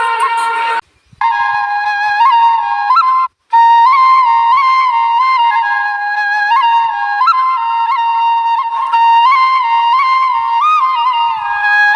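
Background music: a solo flute melody of long held notes decorated with quick ornamental turns. It drops out completely twice for a moment, about a second in and again about three and a half seconds in.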